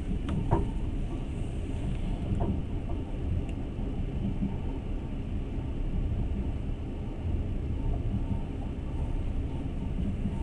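Passenger train running steadily, the rumble of the wheels on the rails heard from inside the carriage. A few faint clicks come in the first couple of seconds.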